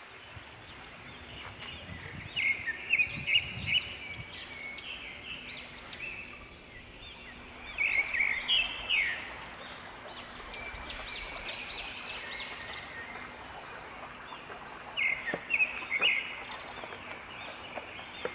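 Small songbird singing in four short bouts of quick, bright chirping notes, over a steady background hiss of open-air noise.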